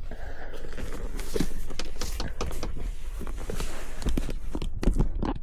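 Irregular knocks, clicks and rustling of things being handled and moved about, over a low rumble.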